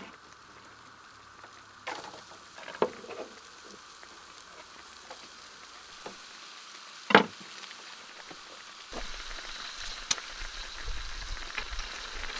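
Onion frying and sizzling in a pan, with a few sharp clicks and knocks of a utensil against the pan as it is stirred. The sizzle grows louder about nine seconds in.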